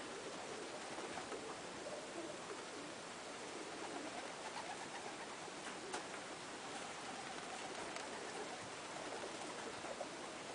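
Pigeons cooing continuously, with a few faint clicks.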